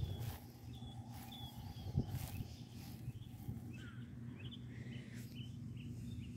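Small birds chirping in short high calls over a steady low outdoor hum, with a brief thump about two seconds in.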